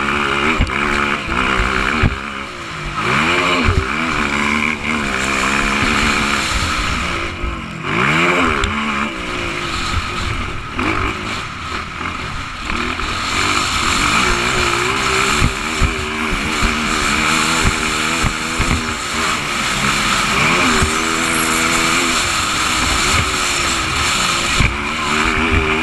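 Motocross bike engines racing, pitch rising and falling again and again as riders accelerate and back off, over a constant mechanical din.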